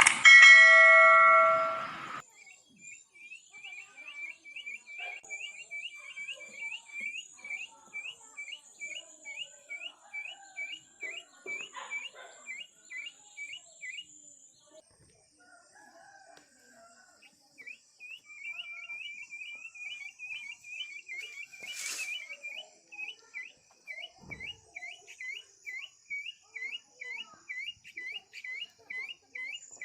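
A village rooster crows once, a loud call of about two seconds at the start. After it, a short high chirp repeats two to three times a second, pausing for a few seconds midway, over a faint high steady drone, with one sharp click about two-thirds of the way through.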